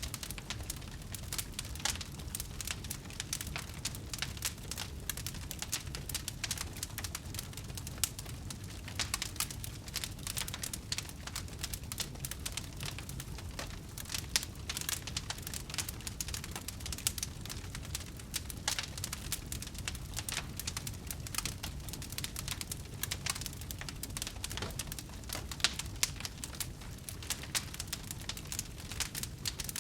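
Wood fire burning, with a continuous stream of small crackles and pops over a low steady rumble.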